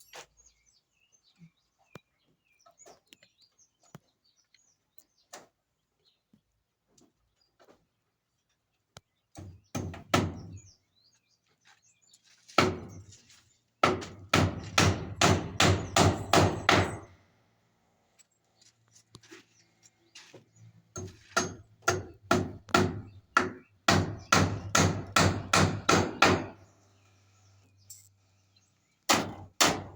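Hammer driving nails in fast runs of blows, about three strikes a second, in several bursts separated by pauses, with faint scattered clicks before the first burst.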